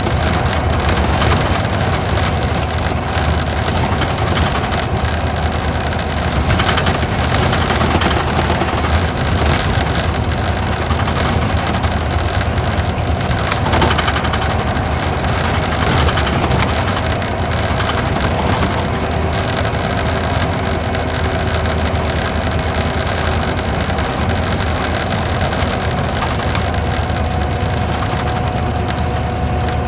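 Isuzu Gala coach's V-type diesel engine running steadily under way, heard from inside the cabin: a low engine drone with a steady mid-pitched tone over road and tyre noise. A couple of light knocks come a little before halfway and again a few seconds later.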